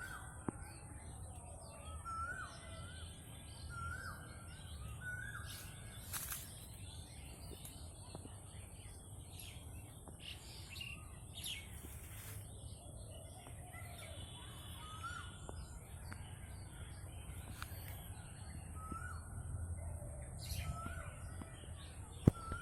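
Birds calling: a short whistled note that rises and dips repeats in runs about a second apart, with other scattered chirps, over a low rumble and a steady high hiss.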